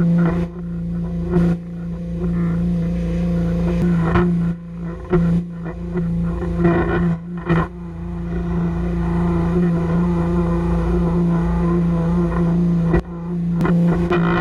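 Pressure washer running with a steady low hum, its sound dipping briefly a few times as the spray is worked.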